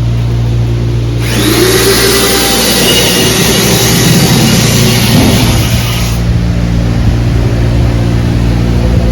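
Steady low machine hum, with a loud rushing noise that starts about a second in and cuts off suddenly about five seconds later.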